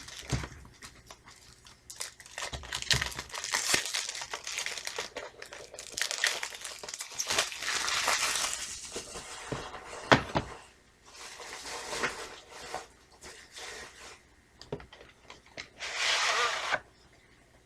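Plastic shrink wrap being torn and crumpled off a VHS tape case, with irregular crinkling and tearing. There is a sharp click about ten seconds in and a final burst of crinkling near the end.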